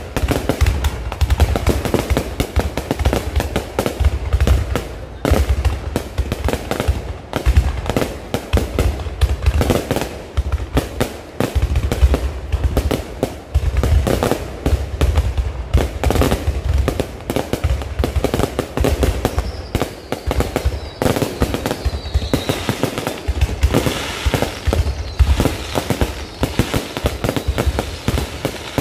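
Low-altitude fireworks display: a rapid, continuous barrage of bangs and crackles with heavy low thumps, and a falling whistle about two-thirds of the way through.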